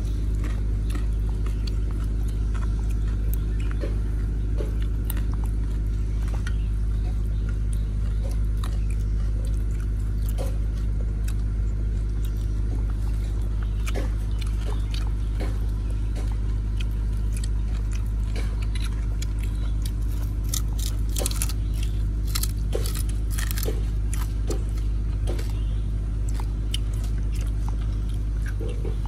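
Biting and chewing crisp grilled fish, with scattered crunches that grow busier about two-thirds of the way in, over a steady low hum.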